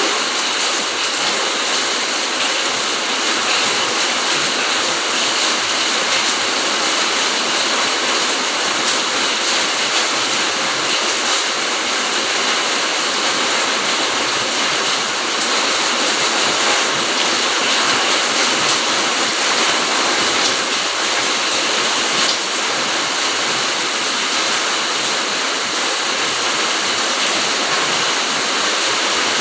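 Steady rain falling on foliage and the ground, a dense even hiss with scattered faint drop ticks.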